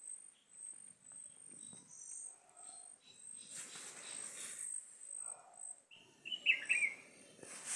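Insect chirping high and steadily, about two chirps a second, with a short bird call near the end and a couple of bursts of noise.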